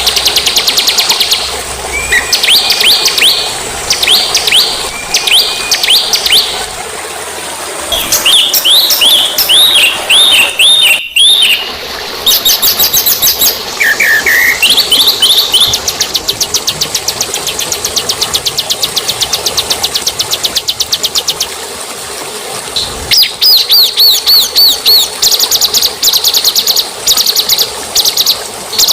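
Small songbirds singing a masteran (tutor) recording for cage birds: bursts of rapid chattering trills alternate with sliding whistled notes, and the trills grow denser and more continuous near the end.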